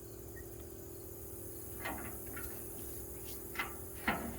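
A few short metallic clinks and knocks from tools and toolbox metal being handled, about two seconds in and twice more near the end, over a faint steady hum.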